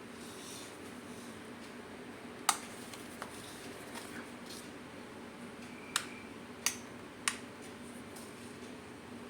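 A handful of sharp, dry clicks over a faint steady hum: one loud click, a faint one soon after, then three more in quick succession later on.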